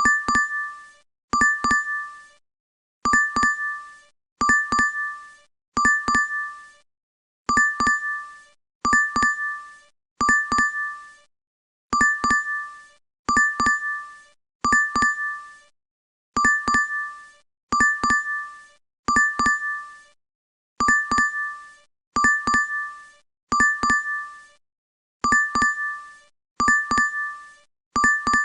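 DoorDash app notification chime repeating on a loop: quick double-struck dings in sets of three about a second and a half apart, each set coming round about every four and a half seconds.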